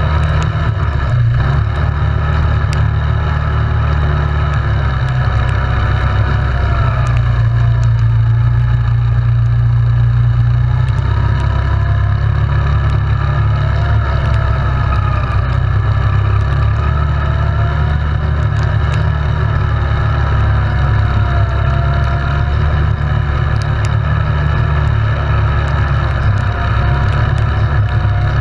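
Yamaha Grizzly 700 ATV's single-cylinder engine running under way, its pitch rising and falling gently as the throttle and speed vary, over a heavy low rumble.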